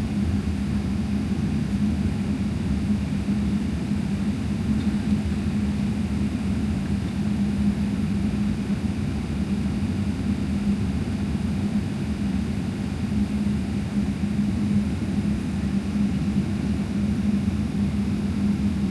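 Steady cabin drone of a Boeing 777-300ER heard from inside the cabin: its GE90 engines and airflow make a constant low rumbling hiss with a steady hum running through it.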